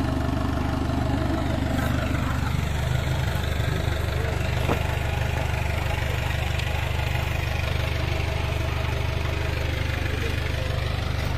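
An engine idling steadily at an even speed, with a faint click about five seconds in.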